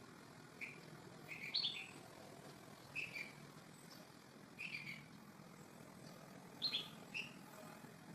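A bird chirping: short, high notes in small clusters every second or two, over a faint steady hiss.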